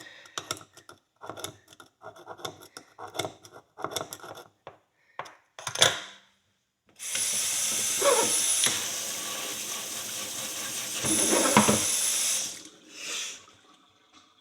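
A hand tool scraping and picking at the nail-hole groove of a steel horseshoe in short strokes, clearing out packed debris. Then water runs for about five seconds, rinsing the shoe, with a brief break and a short last splash.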